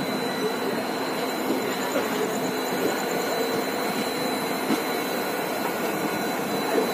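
Steady running noise of a passenger express train rolling over the track, heard from on board, with a few faint clicks from the wheels. A thin, steady high tone sits over it.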